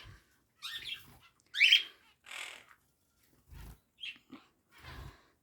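Small pet parrots in a cage giving a few short chirps and squawks, the loudest a sharp falling call a little under two seconds in, with a couple of soft low thumps.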